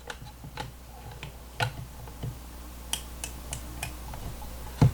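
Irregular light clicks and taps from handling a small battery-powered toy washing machine that has stalled and stopped running.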